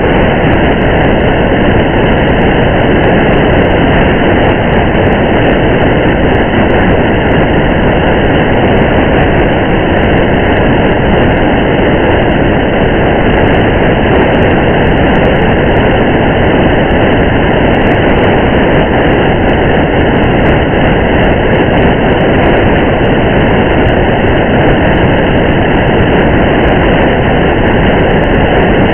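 Steady rain and road noise of a car driving in the rain: an even, unbroken rush.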